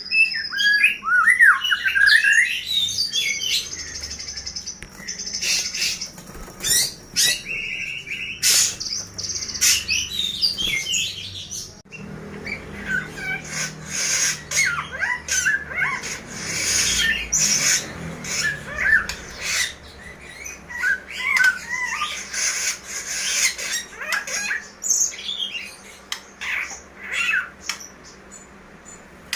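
Several caged songbirds chirping and warbling at once, with rapid, sharp high calls over one another. The mix changes abruptly about twelve seconds in.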